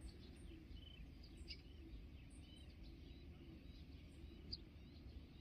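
Near silence: faint outdoor background with a low rumble and small birds chirping now and then.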